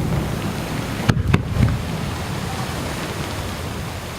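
Fireworks bursting over the sea: two sharp bangs close together about a second in, over a steady hiss.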